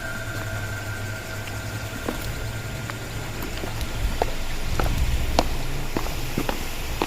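Footsteps on a forest path: sharp scattered ticks and crunches that grow more frequent from about two seconds in, over a steady low rumble. Two long, steady, high whistle-like tones fade out in the first few seconds.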